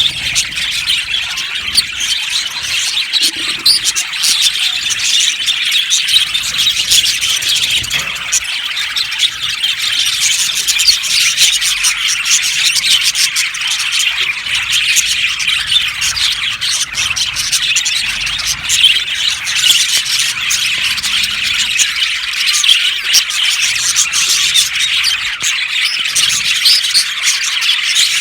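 A flock of budgerigars chirping and chattering, many birds calling over one another in a dense, unbroken high-pitched chatter.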